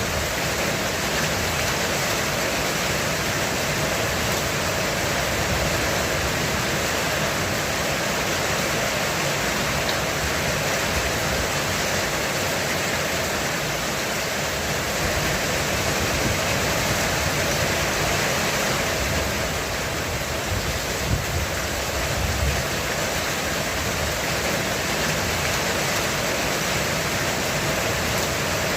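Heavy rain falling steadily on a roof: a dense, even hiss with a low rumble beneath it.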